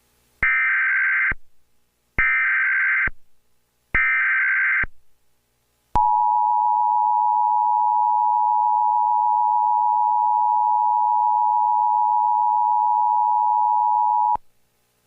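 Emergency Alert System header: three short bursts of digital data tones, each just under a second, then the steady two-tone attention signal held for about eight seconds before cutting off abruptly. Together they announce the start of an emergency alert broadcast.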